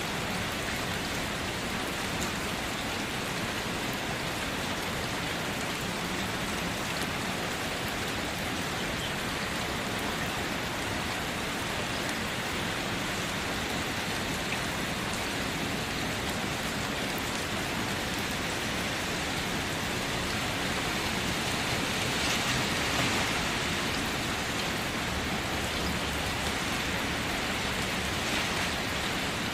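Steady rain falling, an even hiss of many drops, swelling slightly about two-thirds of the way through.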